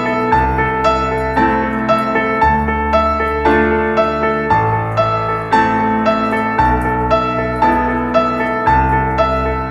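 Gentle piano background music, notes struck about twice a second over sustained bass notes.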